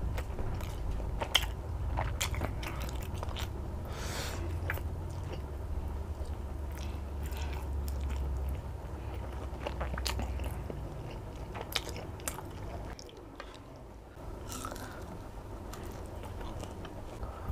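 Close-miked chewing: wet mouth clicks and smacks as a person eats compressed rice cake (nasi himpit) and chicken satay, biting a piece of chicken off a bamboo skewer near the end. A low steady hum sits underneath and drops away about two-thirds of the way through.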